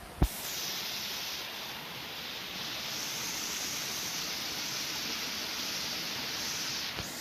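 Steady rush of flowing river water, an even hiss with no rhythm, after a single short knock near the start.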